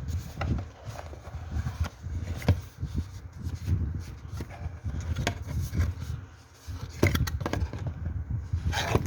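Irregular handling noises: scrapes, rustles and small clicks and knocks, with a cluster of sharper clicks about seven seconds in and again near the end.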